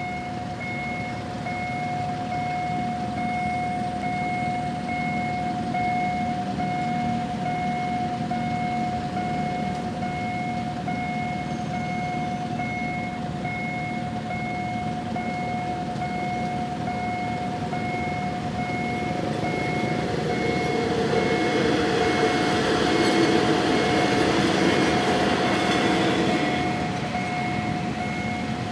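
Level-crossing warning alarm sounding a steady tone with a regularly repeating beep, while a diesel railcar express approaches and runs through the crossing. The train noise builds from about two-thirds of the way in, is loudest shortly after, then eases near the end.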